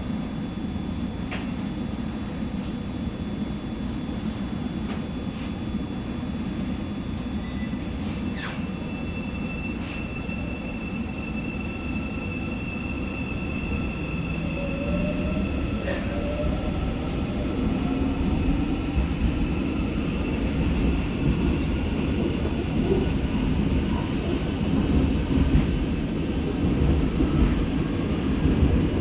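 Seoul Subway Line 4 electric train pulling away from a station, heard from inside the train: steady running rumble, with a faint rising motor whine about halfway through, growing louder toward the end as it picks up speed.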